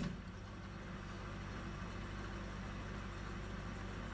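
Metal lathe running steadily with a casting spinning in its four-jaw chuck: an even motor hum with a light mechanical whir, starting suddenly at the outset.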